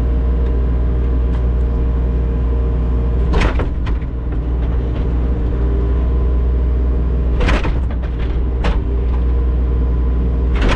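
Diesel engine of a compact digging machine running steadily under load, with a few sharp knocks from the bucket as it digs out frozen ground for a footer.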